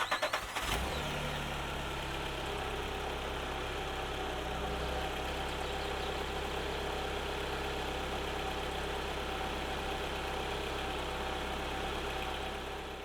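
Linde H20T forklift's Volkswagen LPG engine starting: a brief rapid crank that catches within the first second, then a steady idle.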